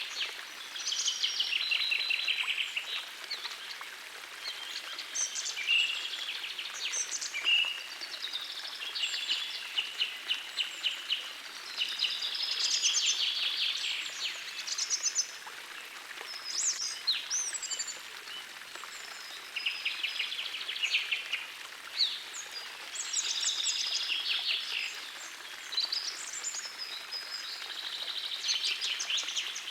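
Several birds singing phrases of fast trills and chirps every few seconds, over the steady hiss of a forest stream.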